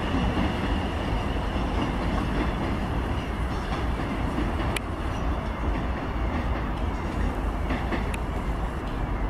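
Passenger train running away from the listener across station pointwork: a steady rumble of wheels on rail, with a couple of sharp clicks about five and eight seconds in.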